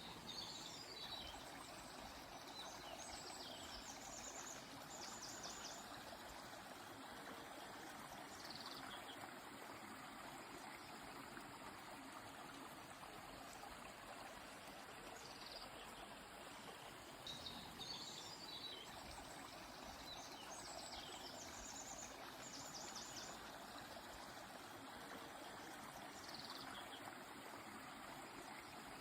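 Steady rushing of a flowing stream, with a songbird singing a phrase of high chirps ending in a quick trill, twice: at the start and again about halfway through.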